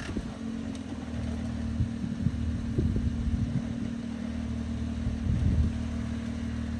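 Jeep Wrangler engine running steadily at low revs as the Jeep crawls over rocks, with a couple of brief louder moments partway through.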